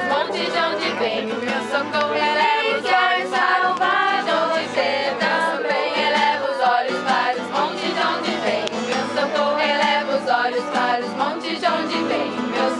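A group of voices singing a worship song together.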